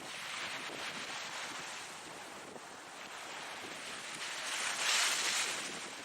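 Ocean waves breaking and washing on a shore, a steady hiss with a larger wave rising to a peak about five seconds in and then falling away.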